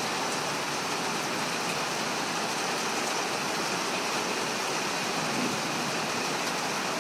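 Heavy rain falling steadily in a thunderstorm, an even hiss with no thunderclaps.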